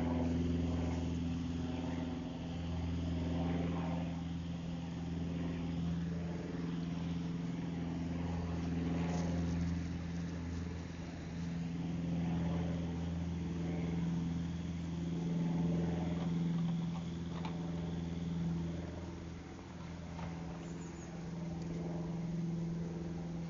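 An engine running steadily at one speed, a low hum of several tones that holds without revving.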